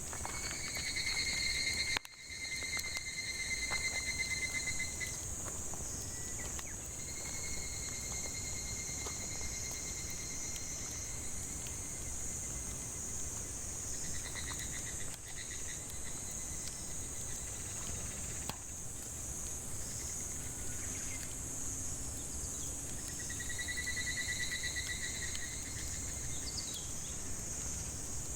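Steady high-pitched chorus of cicadas in a forest, with a lower, pulsing insect-like call coming and going several times over it. Faint scattered crackles from burning firewood.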